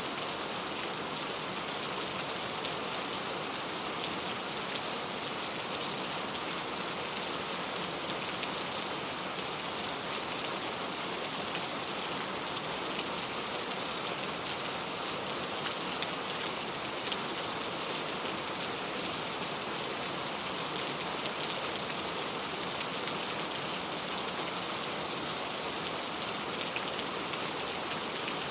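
Steady rainfall, a dense even patter of many fine drops hitting a surface.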